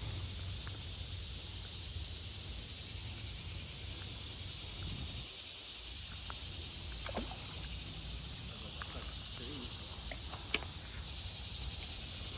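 Steady outdoor ambience: an even high insect hum, likely crickets, over a low rumble, with one sharp click about ten and a half seconds in.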